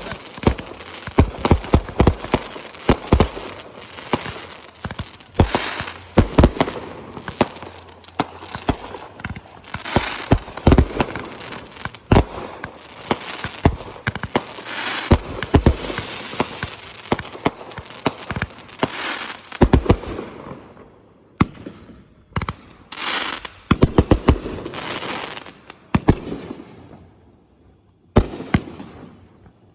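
Consumer fireworks going off in quick succession: many sharp bangs with crackle between them. After about twenty seconds they thin out into scattered clusters of bangs with short lulls.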